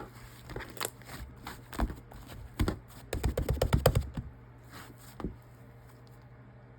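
Fluffy milky-white slime being pressed and poked by hand, giving sharp little clicks and pops, with a quick run of them about three seconds in.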